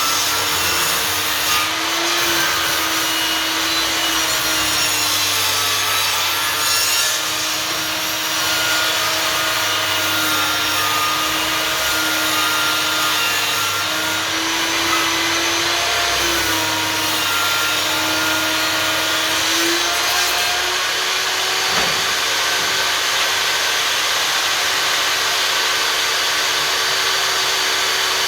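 Einhell table saw cutting through a recycled wooden board, its motor running continuously with the blade's dense rasping noise over it. The motor tone shifts briefly a few times along the cut.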